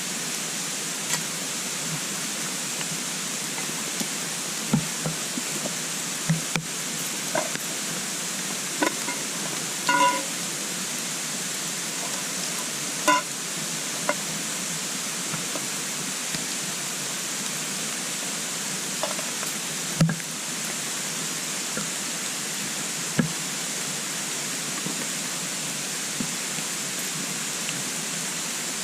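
A wood fire burning in a compact twig stove: a steady hiss with scattered crackles and pops, and two brief ringing clinks about a third and nearly halfway through.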